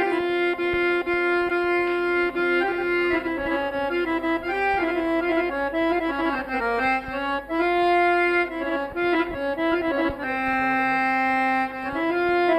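Instrumental music: an accordion playing a melody of held, steady notes between sung lines of an Egyptian song.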